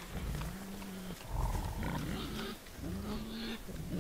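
Herd of wild boars grunting: a string of short, low calls one after another.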